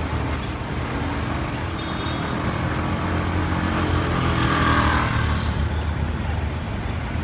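Street traffic: a motor vehicle's engine runs steadily with a low hum, and passing-traffic noise swells and fades about halfway through.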